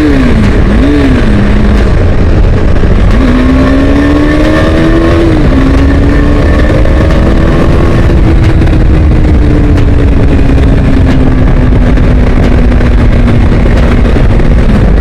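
KTM 390 Adventure's single-cylinder engine under heavy wind noise. It revs twice in quick succession near the start, then accelerates with a gear change about five seconds in. A long pull follows whose pitch rises a little and then slowly eases off.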